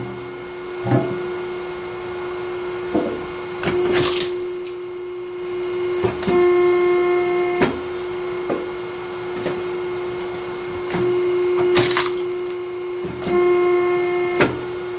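Hydraulic log splitter running with a steady hum from its pump, which grows stronger twice as the ram works under load. Sharp knocks and two brief, bright cracking bursts, about 4 and 12 seconds in, come as the wood gives way.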